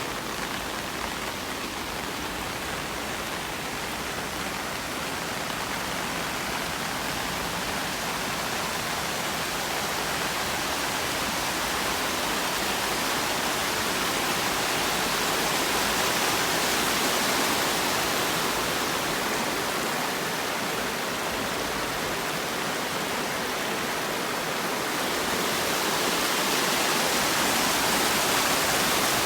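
Steady rain falling, an even hiss that swells a little around the middle and again near the end.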